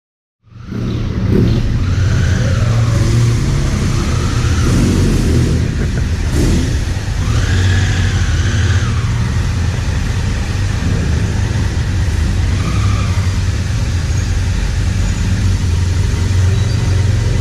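Motorcycle engines running under a heavy, steady low rumble, with several engine notes that rise and then fall as bikes rev or pass.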